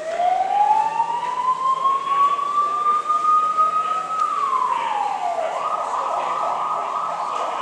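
Police vehicle siren starting up. A slow wail rises for about four seconds and drops back, then it switches to a fast yelp of quick repeated sweeps.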